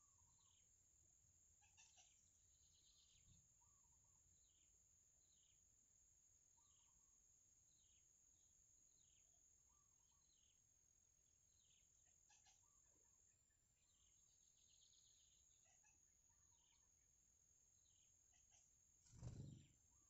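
Faint, thin chirps from small birds at the nest, repeating about once a second over a steady high-pitched whine. Near the end comes one short, loud, low thump, the loudest sound.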